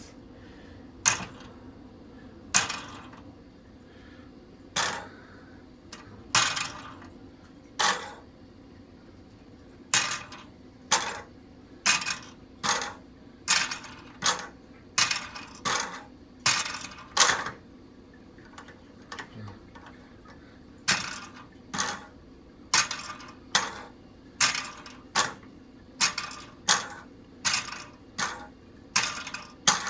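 Sharp clicks and clinks of small model airplanes being handled and set down on a hard surface. They come irregularly at first, then come faster and more evenly, about one to two a second, in the second half.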